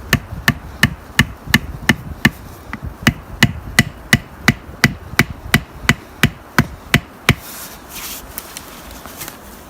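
Tent peg being hammered into the ground: a steady run of sharp blows, about three a second, that stops about seven seconds in.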